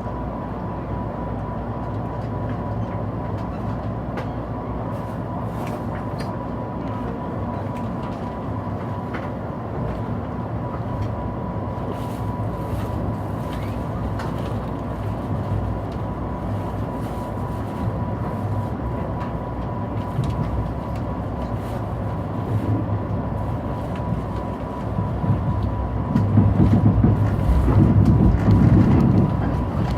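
Mugunghwa-ho passenger train departing a station: a steady rumbling hum with a thin, steady high tone through it, growing clearly louder about 25 seconds in as the train gets under way.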